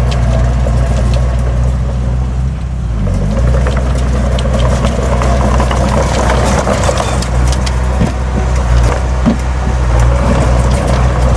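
Heavy diesel engine of earthmoving equipment running steadily; its pitch dips briefly about three seconds in. A grainy noise with scattered clicks and clanks swells in the middle, from the soil or stone being worked.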